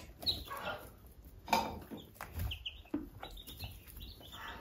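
Birds chirping, a handful of short high chirps in the second half, among a few soft scrapes or knocks, the loudest about one and a half seconds in.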